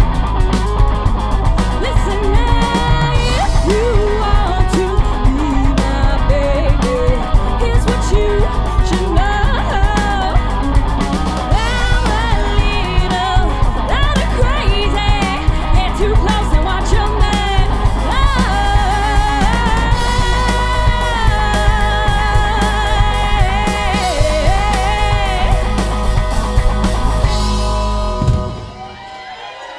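Live rock band playing, with singing and guitar over a steady heavy low end. The music stops sharply near the end, as the song finishes.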